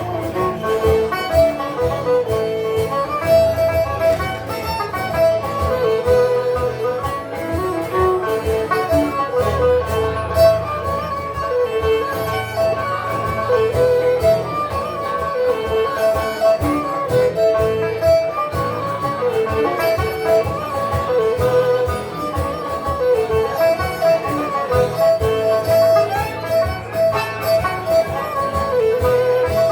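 Live instrumental Scottish folk music from a small acoustic band: strummed guitar beneath a held melody line, recorded on a phone.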